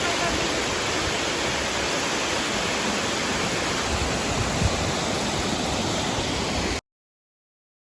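Waterfall rushing in a steady, dense roar of falling water, which cuts off abruptly about seven seconds in.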